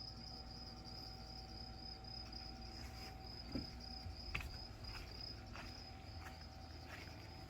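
Faint insects trilling steadily at a high pitch, with two light knocks near the middle.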